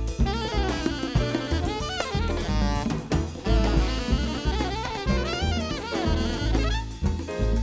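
Live jazz band playing: a saxophone runs a fast, winding melodic line over a drum kit and a deep bass line.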